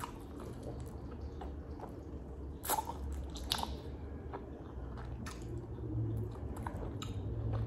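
Mouth sounds of eating sauce-covered crab legs: wet chewing and biting, with a couple of sharper smacks about three seconds in, over a faint low hum.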